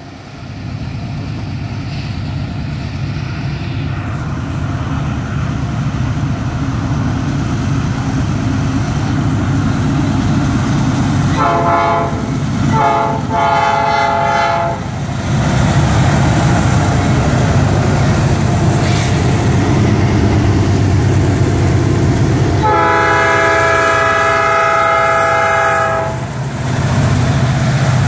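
Diesel locomotives of a Norfolk Southern empty coal train, a GE AC44C6M leading an EMD SD70ACe, working up a grade as they approach and pass, with a deep steady engine rumble that grows louder as they near. The locomotive air horn blows twice a little before halfway through, then once longer, for about three seconds, near the end.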